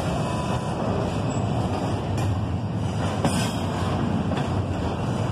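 Double-stack intermodal well cars rolling past at speed: a steady rumble of steel wheels on the rails, with a couple of faint knocks.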